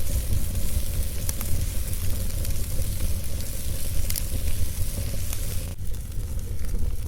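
Wood fire burning, crackling with scattered sharp pops over a steady low rumble and hiss. The hiss drops away abruptly about six seconds in.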